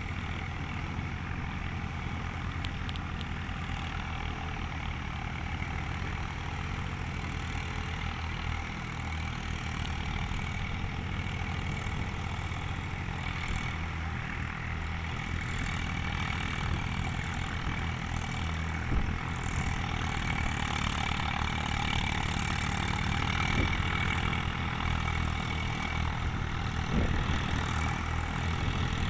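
Eicher 380 tractor's diesel engine running steadily, getting somewhat louder in the second half, with two short knocks.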